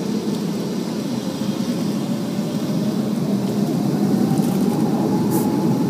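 Airliner engines running with a steady rumble, growing slightly louder, and a faint whine that rises a little in pitch about halfway through.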